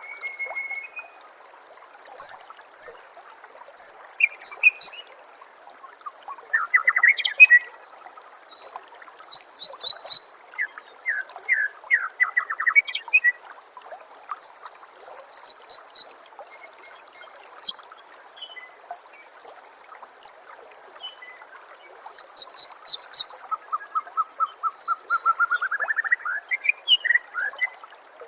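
White-rumped shama (murai batu) singing a string of varied whistled phrases and chirps, ending in a rising run of quick notes, over a steady trickle of running water.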